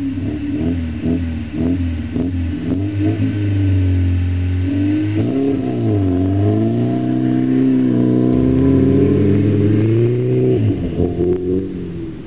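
Ford Orion 1.3's engine and exhaust revving: a run of quick blips for the first few seconds, then the revs dip and climb and are held high before dropping off near the end.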